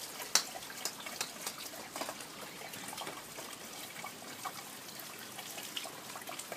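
Rain falling: a steady hiss with many irregular drops ticking and splashing close by, one sharper tick about a third of a second in.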